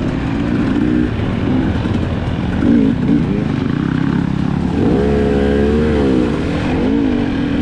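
Dirt bike engine revving up and down as it is ridden along a trail, its pitch rising and falling with the throttle, with a longer, stronger rev about five seconds in.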